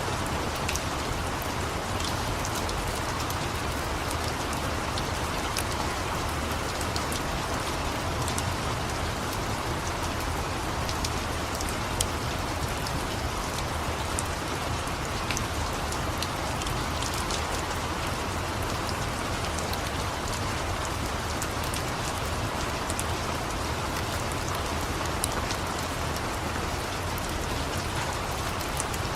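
Steady rain hissing without a break, with scattered sharp clicks and pops from a crackling wood fire; one of the pops stands out about twelve seconds in.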